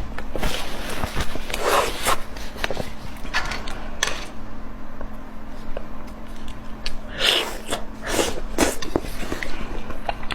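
Close-up eating sounds: wet chewing and lip-smacking clicks, with a few louder breathy bursts through the nose or mouth.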